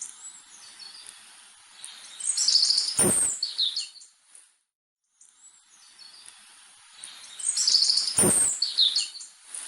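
Songbird singing: a phrase of high chirps and falling trills with a sharp click in the middle, then the same phrase again about five seconds later, over a light steady hiss that cuts out briefly between them.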